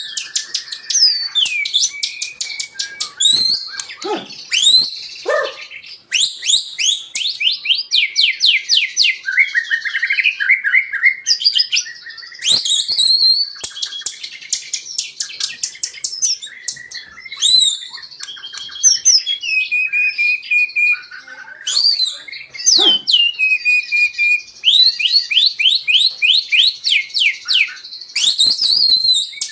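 White-rumped shama singing a long, varied song: loud whistles that rise and fall, mixed with fast runs of repeated sweeping notes and rattling trills, with hardly a pause.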